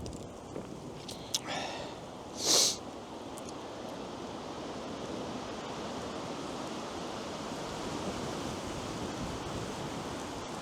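Steady outdoor rushing noise, with a sharp click about a second and a half in and a brief loud hiss about two and a half seconds in.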